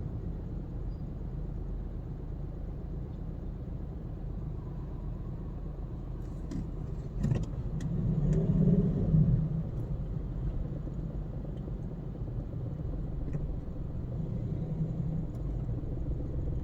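Steady low rumble of a car's engine and road noise heard from inside the cabin, swelling louder for a couple of seconds about eight seconds in, with a few faint clicks just before.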